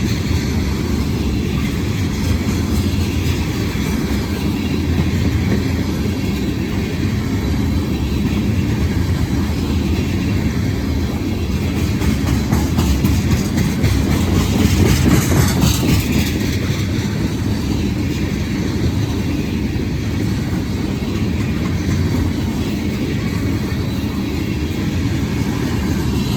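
Long freight train of tank cars rolling past on the rails: a steady low rumble of wheels on track, swelling a little about halfway through.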